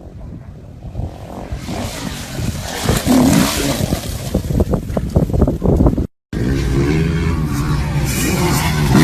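Motorcycle engines running in two back-to-back clips. The first is rough and uneven, with many short spikes. After a brief cut about six seconds in, the second holds a steady note.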